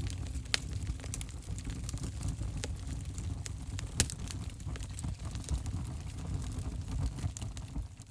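Fire crackling in a fireplace: a steady low rumble of burning with frequent sharp pops and snaps, two louder pops about half a second and four seconds in.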